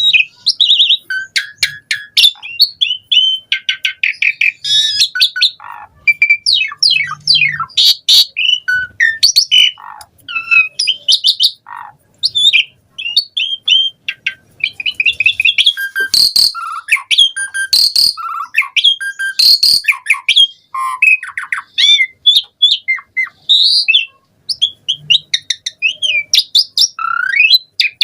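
Asian pied starling (jalak suren) singing non-stop: a fast, varied run of chirps, whistles, rapid trills and harsher notes, packed with mimicked phrases of other birds.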